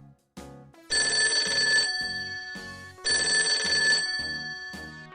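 Telephone ringing: rings about a second long, repeating roughly every two seconds.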